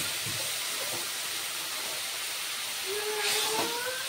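Fish heads and sliced vegetables sizzling in hot oil in a kadai with a steady hiss, and a metal spatula stirring the pan about three seconds in.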